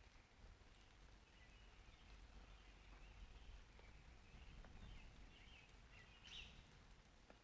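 Birds chirping faintly in short calls, several times, with one clearer call near the end, over a low, steady background rumble.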